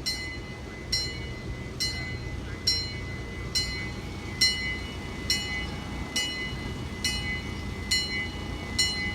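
A bell ringing at a steady pace, about one strike a second, each strike ringing on, over a low steady rumble from the ride-on scale train.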